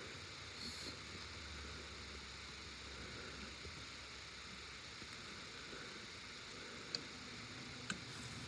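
Faint background hiss with a few small, sharp clicks, about three in all and spread apart: hands working the wires and a wire nut.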